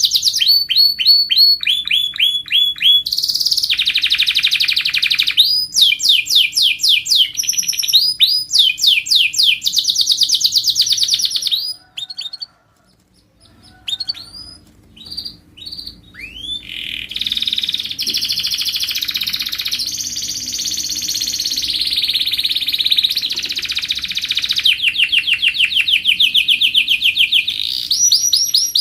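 Domestic canary singing in long, fast trills of quickly repeated falling notes. It breaks off briefly about twelve seconds in, gives a few scattered notes, then resumes in a long continuous run.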